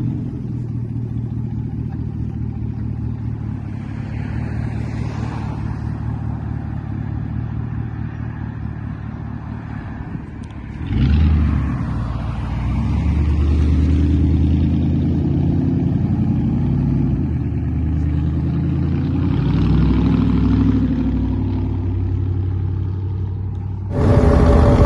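Loud pickup truck exhaust with the engine running, which jumps up and gets louder about eleven seconds in as the engine is revved, then rises and falls. Just before the end a different, louder engine sound cuts in abruptly.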